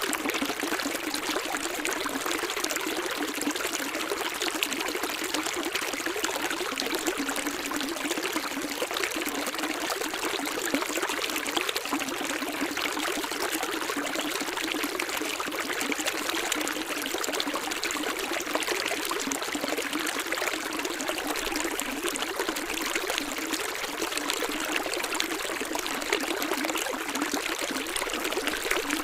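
Running water, flowing and trickling steadily without pause, high and hissy with little deep rumble.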